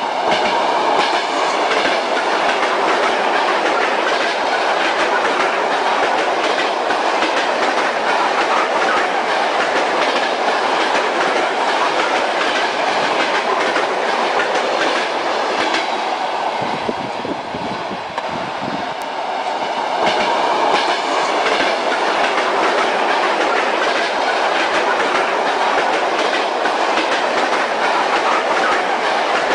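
Steady rumble of a moving train carriage, with the wheels clicking rhythmically over the rail joints. The sound thins out briefly about two-thirds of the way through, then comes back.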